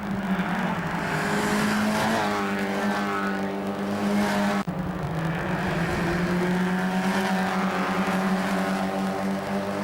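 Mazda MX-5 Cup race cars running hard, their engine notes sliding in pitch as cars pass, with a brief dropout about halfway through.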